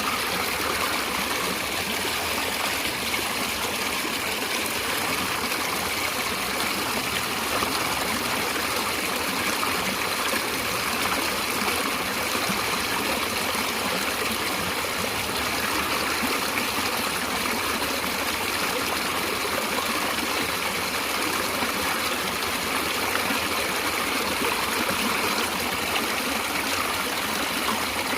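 Natural running water flowing steadily, with no breaks or changes.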